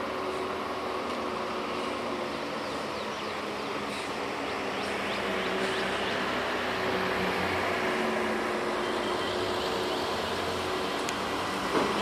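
Motor vehicle running steadily with engine and road noise, a short sharp knock near the end.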